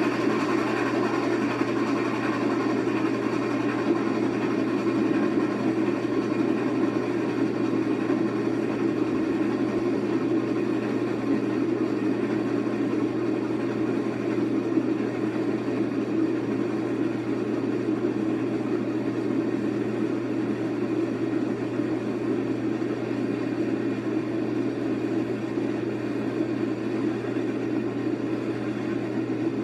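A long passenger train rolling steadily by, a continuous rumble with a steady low hum and no distinct exhaust beats, easing off slightly toward the end.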